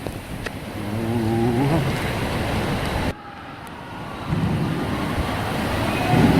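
Rushing, churning water of a fast-flowing water-park tube river, heard from a rider's inner tube. A short wavering voice-like call sounds about a second in; the water noise drops off suddenly just after three seconds and swells back about a second later.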